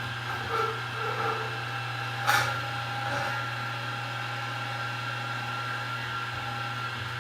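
Milling machine spindle running steadily in high range at about 1200 RPM with a number 29 drill bit fitted: a constant motor hum and whine. A few short knocks and one sharper clink or scrape a little over two seconds in.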